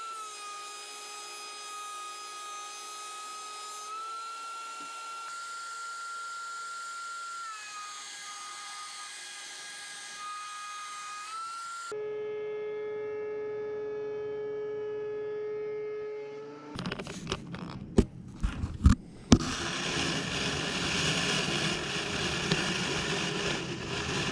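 DeWalt DW735X thickness planer running: a steady high motor whine that dips and rises in pitch a few times, switching abruptly about halfway through to a lower whine. Near the end come a few sharp knocks, then loud rushing noise as a board is planed.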